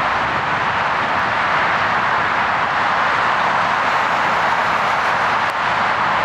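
Steady jet engine noise from a Boeing 747-400's four engines, an even, unbroken rush with no change in pitch.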